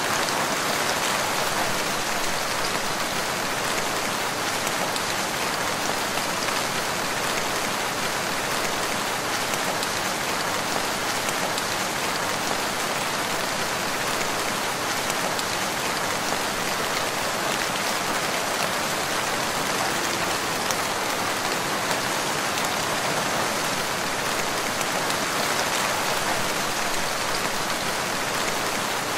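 Steady rain falling, an even hiss of many drops with no breaks or thunder.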